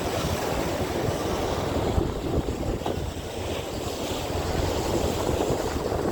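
Strong wind buffeting the microphone in an irregular low rumble, over a steady rush of sea noise.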